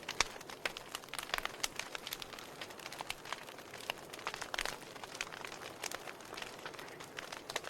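Wood fire burning in a fireplace, crackling and popping irregularly over a steady soft hiss.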